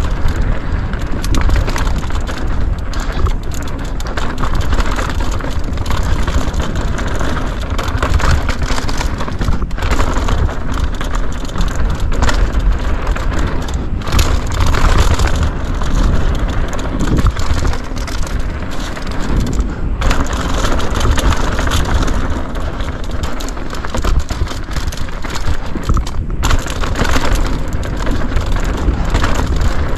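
Mountain bike riding downhill over a dirt trail: continuous tyre noise on dirt and gravel, with the bike rattling and knocking over bumps.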